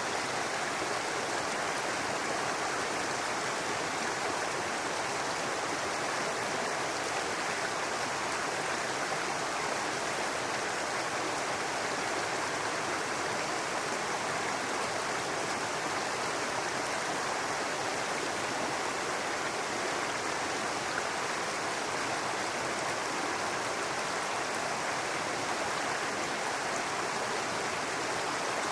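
A babbling brook: shallow water running steadily over rocks, an even rushing sound with no breaks.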